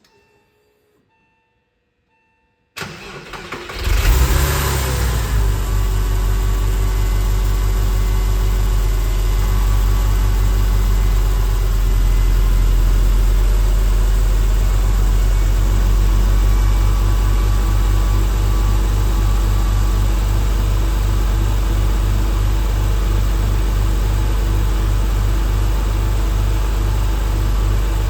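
1999 Porsche 911 Carrera's water-cooled 3.4-litre flat-six cold-starting: the starter cranks briefly almost three seconds in, the engine catches with a short rev flare that rises and falls, then settles into a steady idle.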